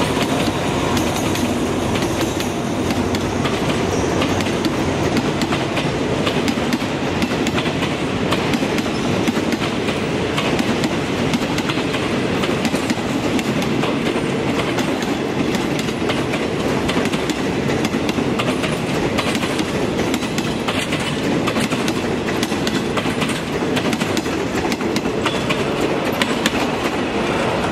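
A train of empty passenger coaches rolling steadily past, its wheels clicking over the rail joints in a continuous clickety-clack.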